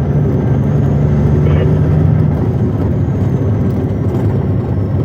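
Western Star logging truck's diesel engine running under way, heard from inside the cab. A steady low drone whose held note fades about two seconds in, leaving a rougher, less even rumble.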